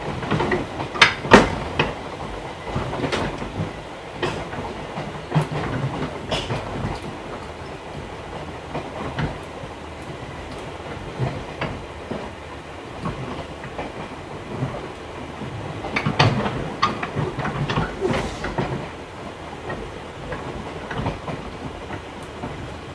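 Inside a JR 211 series electric train's DC-motored car under way: steady running rumble with irregular sharp clicks of the wheels over rail joints, the loudest about a second in and again around sixteen to eighteen seconds in.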